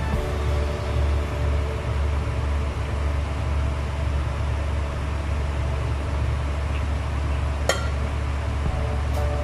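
Steady low mechanical hum, with one sharp metal clink about three-quarters of the way through as a metal spoon strikes the rim of a steel cooking pot.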